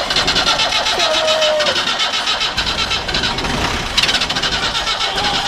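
1981 Land Rover Series III's four-cylinder diesel engine being cranked on the starter with jump leads connected, in a steady fast rhythm, with a sudden change in the sound about four seconds in. The engine has stood unused for two years and is low on fuel.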